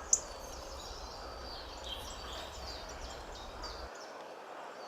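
Birds chirping in short, scattered high calls over a steady background hiss, with one brief sharp chirp just after the start the loudest.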